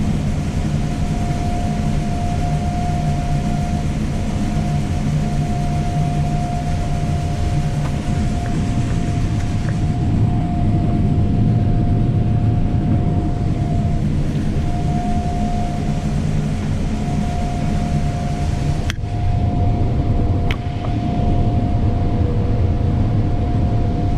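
Combine harvester running steadily while harvesting soybeans: a low, even machine drone with a steady whine above it. The sound breaks off sharply for a moment about nineteen seconds in, then carries on.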